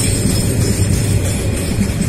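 Loaded container flat wagons of a metre-gauge freight train rolling past close by: a steady low rumble from the wheels on the rails, with metallic rattling and jingling from the wagons.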